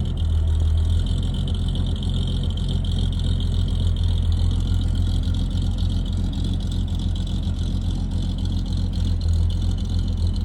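A car engine running at a steady idle, with its sound concentrated in the deep low end and no revving.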